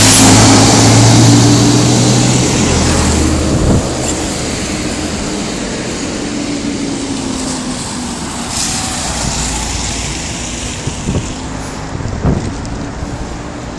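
A motor vehicle's engine running close by and fading away over the first few seconds, over a steady rushing noise. A few short knocks come near the middle and near the end.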